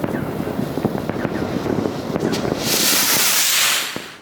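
Fireworks crackling and popping, then a loud hissing rush for about a second and a half that fades away sharply near the end.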